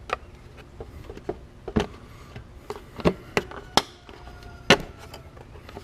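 Metal parts and hand tools clinking and knocking as the carburetor's mounting bolts are lined up and fitted, about six sharp irregular knocks.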